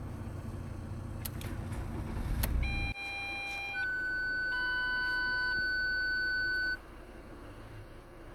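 Ford Transit 2.2 TDCi diesel engine idling, its low rumble cutting off sharply about three seconds in. Steady electronic beep tones at several pitches follow for about four seconds, then stop.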